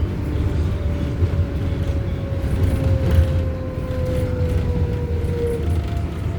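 R188 subway train running between stations: a steady low rumble of wheels on rail. A faint thin tone slowly falls in pitch through most of it.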